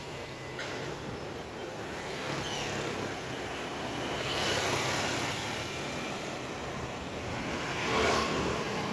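Street ambience with motor vehicles passing. The noise swells about halfway through and again near the end.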